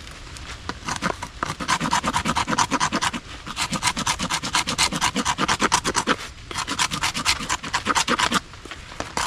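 Knife spine scraping wet bark off a stick in rapid strokes, with two brief pauses.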